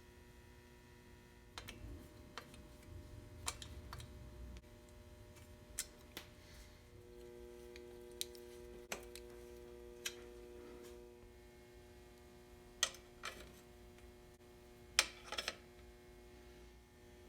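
Scattered light clicks and taps of tools and metal parts as a mountain bike is reassembled, about a dozen in all, the sharpest near the end, over a steady faint hum.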